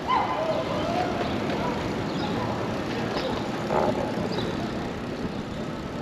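Steady wind and road noise of a bicycle ride, with faint voices.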